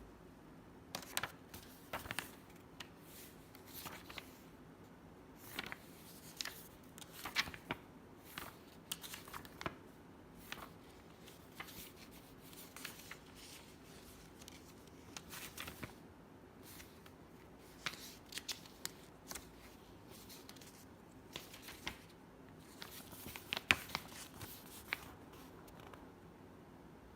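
Irregular light clicks, taps and rustles of objects being handled, in clusters, loudest near the end.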